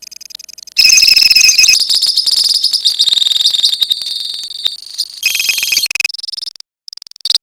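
Lovebirds in a colony chattering in fast, high-pitched trills, the rapid 'ngekek' call. The chatter starts loud about a second in, fades after four seconds, and comes back in a short burst near five seconds before breaking off.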